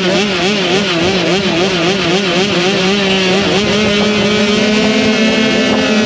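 Motocross dirt bike engine running at high revs, its pitch wavering up and down about three times a second, then steadying and slowly climbing for the last couple of seconds.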